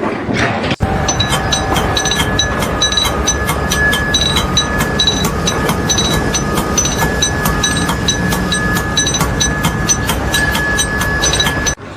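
Steady mechanical running noise with rapid, regular clicking and a steady high-pitched whine, starting and stopping abruptly.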